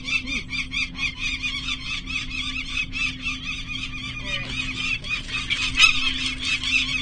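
Peregrine falcons calling: a continuous run of harsh, rapidly repeated notes, several a second, with a steady low hum beneath.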